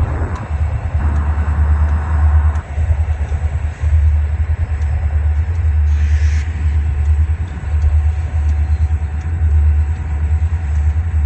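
CSX freight train backing into a rail yard: a loud, steady low rumble from the locomotive and rolling cars, swelling and easing.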